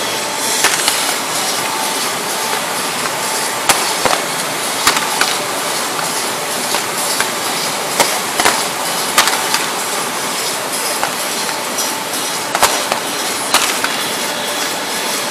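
Fireworks going off: a continuous crackling hiss with many irregular sharp cracks and pops from bursting shells, a few standing out louder than the rest.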